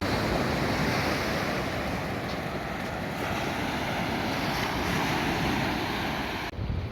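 Steady rushing noise of surf and wind on the microphone, cutting off abruptly near the end.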